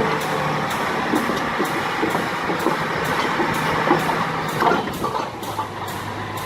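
Heavy machinery running steadily, with scattered knocks and rattles.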